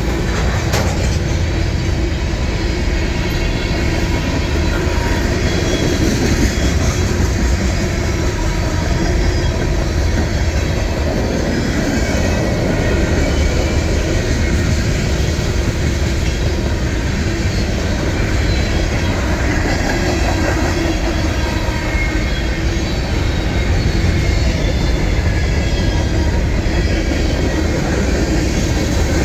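Freight cars (covered hoppers, tank cars and a flatcar) rolling past close by: a loud, steady rumble of steel wheels on rail with clickety-clack and faint, thin wheel squeals.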